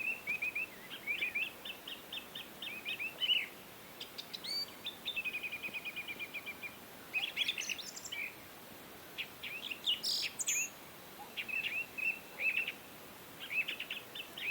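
Songbirds chirping and singing, with short repeated phrases and a rapid even trill about five seconds in, over faint outdoor background noise.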